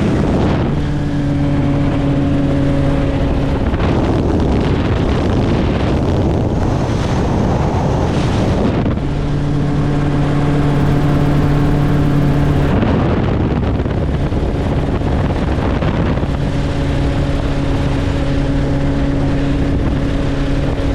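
Helicopter in flight: a loud, steady drone with a low hum and its overtones, alternating with stretches of wind rushing on the microphone that cover the hum.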